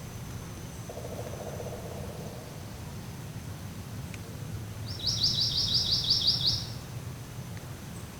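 A songbird's quick trill of about a dozen high chirps lasting about a second and a half, past the middle, over steady low outdoor background noise.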